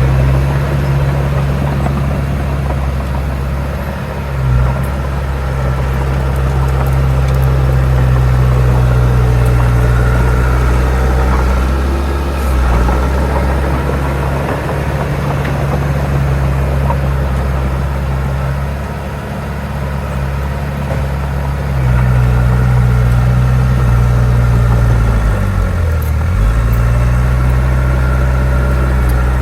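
Heavy diesel earthmoving machinery running steadily at a low, even engine note. Near the end, the engine pitch drops briefly and comes back up, as when it takes a load.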